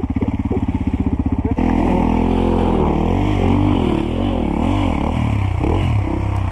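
Dirt bike engine chugging at low revs, then from about a second and a half in, revving up and down over and over as the throttle is worked.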